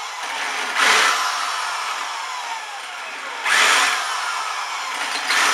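Electric drill with an oversized bit countersinking freshly drilled 8 mm holes in a motorcycle exhaust's metal end cone, worked in short bites. There are three loud grinding bursts as the bit cuts, and between them a whine falling in pitch as the drill eases off.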